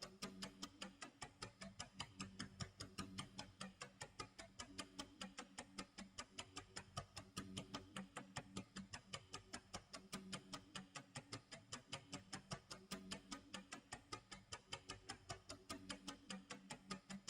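Faint clock tick-tock sound effect: fast, even ticks over a low, pulsing tone.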